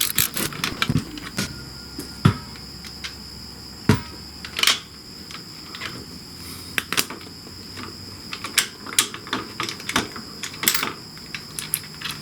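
Irregular metal clicks and clinks of hand tools on bolts as a motorcycle's shift-lever linkage is taken apart, bunching into quicker clicks in the last few seconds.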